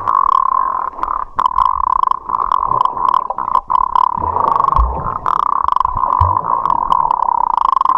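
River current gurgling and rushing, muffled as heard through a camera held in the water, with scattered knocks and clicks and a few low thumps about four to six seconds in.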